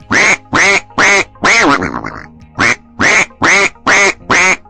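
A duck quacking over and over, about nine loud quacks in quick succession with a short pause near the middle, over soft background music.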